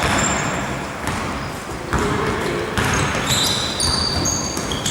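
Basketball game on an indoor court: the ball bouncing, with short high squeaks through the second half, in a reverberant hall.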